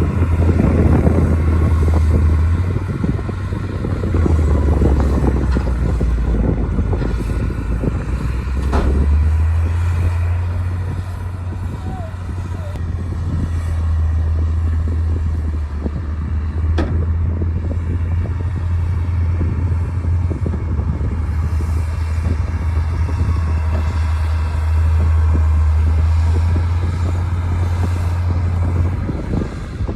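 D60 crawler bulldozer's diesel engine running steadily under working load, its low drone shifting pitch and swelling as the load changes, with an occasional sharp metallic knock.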